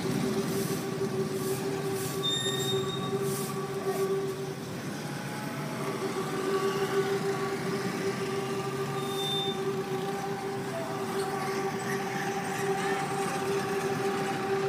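Philippine National Railways commuter train running past, a steady rumble carrying a high, steady whine with overtones. The whine drops out about four seconds in and comes back a second or so later.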